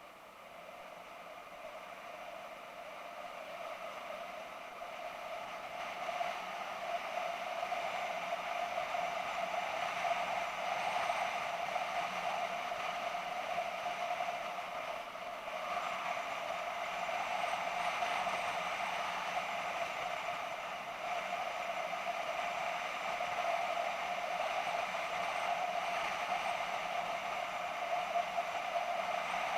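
BMW F650GS motorcycle under way: a steady drone of engine and rushing wind and road noise, picked up by a camera mounted on the bike. It grows louder over the first several seconds and then holds steady.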